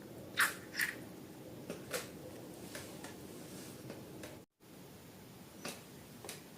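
Slime-making materials being handled: a handful of short, soft clicks and squishes, mostly in the first two seconds and twice near the end, with the sound cutting out for an instant midway.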